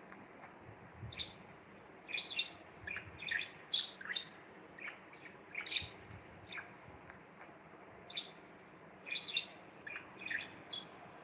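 Budgerigar chirping in short, sharp calls that come in irregular little clusters with brief pauses between.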